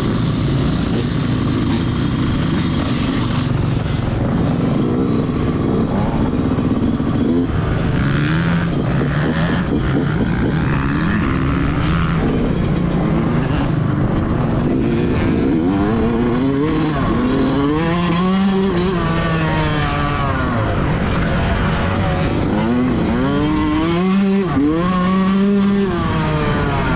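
Motocross bikes running on the track, several engines overlapping, their pitch rising and falling again and again as the riders open and close the throttle and shift.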